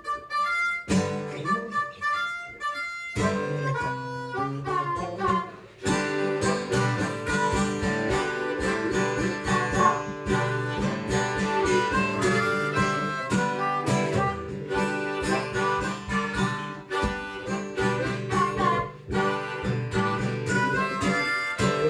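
Instrumental break of a rock song with no singing. Sparse single notes play for the first few seconds, a bass line comes in around three seconds, and the full band plays with a steady beat from about six seconds in.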